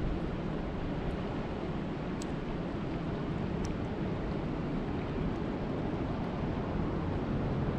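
Steady rain as a dense, even hiss weighted toward the low end, with a couple of faint sharp ticks of single drops.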